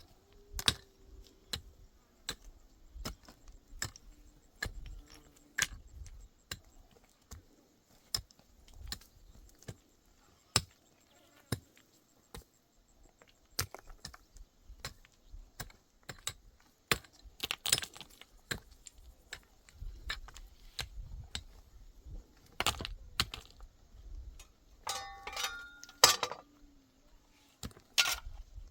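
Hard objects knocking and clicking together at irregular intervals, some strikes much sharper than others, with a short squeaky tone a little before the end.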